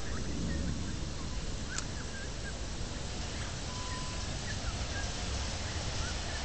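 Small birds chirping in short, scattered calls over a steady outdoor hiss and a low rumble.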